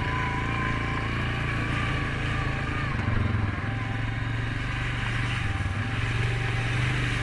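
Suzuki KingQuad 750 ATV's single-cylinder engine running steadily while riding, with a thin whine over it for the first three seconds or so.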